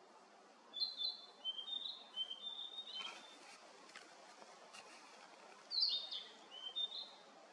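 A songbird singing two phrases of short, high, clear notes, the second starting about a second after the first ends.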